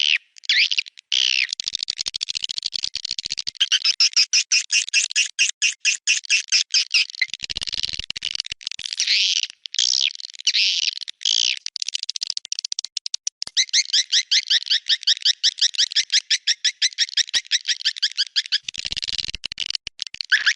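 Recorded swiftlet calls, a lure track of the kind played at swiftlet houses to draw the birds in: dense, high twittering chirps. From about two-thirds of the way in they settle into fast, even trains of about eight chirps a second.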